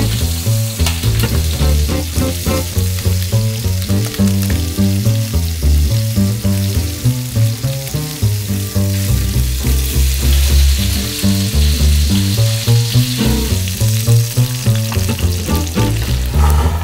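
Chicken pieces sizzling steadily as they brown in hot fat in a frying pan, with background music and its bass line underneath.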